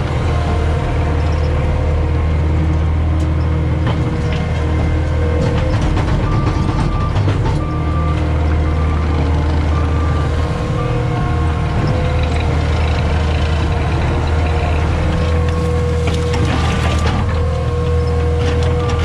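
CAT 259D skid steer's diesel engine running steadily under work, with its backup alarm beeping on and off in short repeated beeps. A few clanks near the end.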